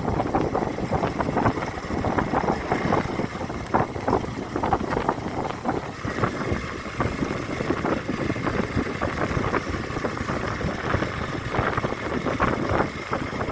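Motorcycle running steadily on the road, with wind buffeting the microphone.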